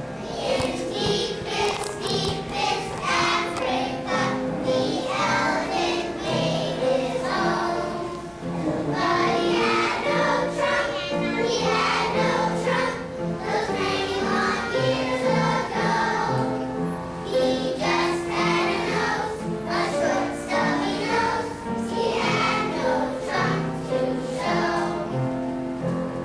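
A group of young schoolchildren singing a song together, with musical accompaniment.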